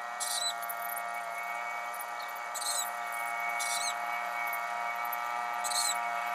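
Small birds giving a few short, high, squeaky chirps at irregular intervals, over a steady many-toned hum.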